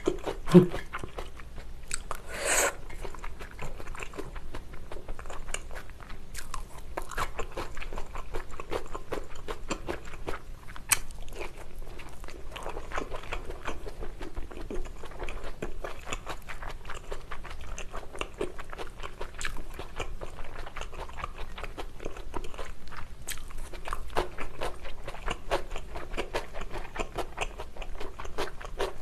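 Close-miked chewing and biting of a pasta dish with bell pepper, shrimp and abalone: wet crunches and mouth clicks coming many times a second, with a few sharper clicks along the way.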